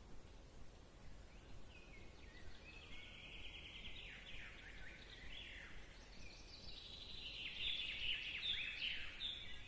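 Faint birdsong: a run of high chirps, quick trills and falling sweeps over a low background hiss, busiest near the end.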